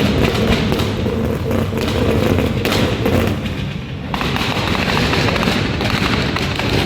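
Car engine running loudly through its exhaust, a deep rumble laced with rapid crackling pops; it eases briefly about three and a half seconds in.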